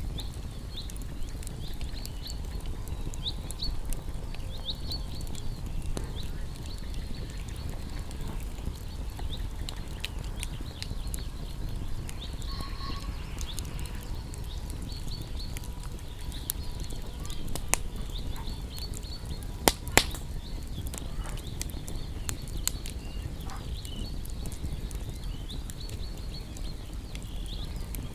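Wood bonfire crackling with scattered sharp pops over a steady low rumble, with two loud pops close together about two-thirds of the way through. Small birds chirp repeatedly in short high notes.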